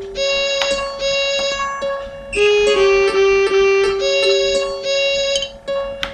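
Computer-generated MIDI music in a piano-like keyboard voice: long held high notes with shorter notes struck between them.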